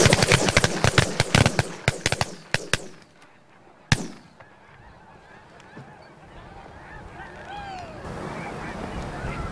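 A flock of snow geese calling, with a rapid volley of shotgun shots from several hunters over the first three seconds and one more shot about four seconds in. The geese keep calling more faintly afterwards.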